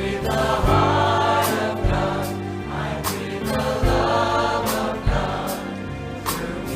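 Choir singing gospel-style music over a band, with bass and drums keeping a steady beat.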